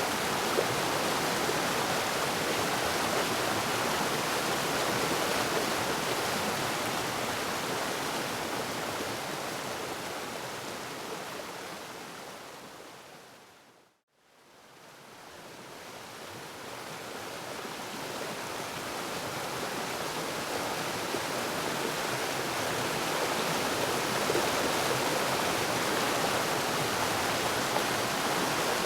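Waterfall rushing steadily. About halfway through it fades out smoothly to silence and then fades back in to full level.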